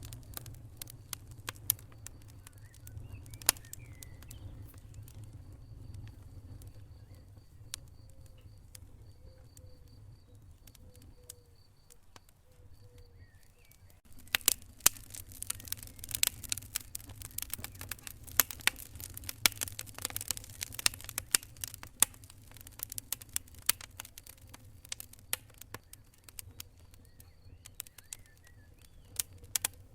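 Wood fire burning in a fireplace: scattered sharp crackles and pops over a low steady rumble, the crackling turning much denser for several seconds about halfway through.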